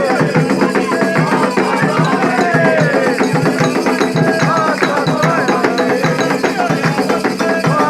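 Candomblé drumming for Xangô: atabaque hand drums beating a fast, steady rhythm with a bell or wood-block-like accompaniment, and voices singing over it.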